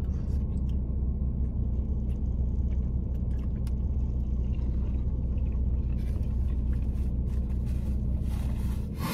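Car engine idling with a steady low rumble, heard from inside the cabin. Small clicks of eating ride over it, and a paper napkin rustles during the last few seconds.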